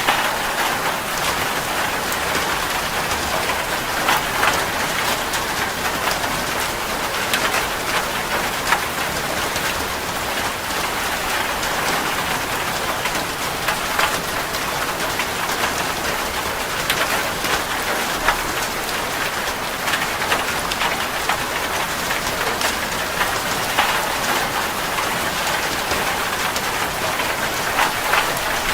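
Heavy rain falling on a metal roof: a steady hiss dotted with the sharp ticks of single drops.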